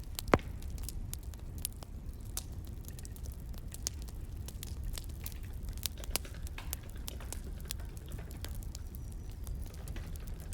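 Wood fire crackling: scattered, irregular sharp pops over a low steady rumble, with one louder pop just after the start.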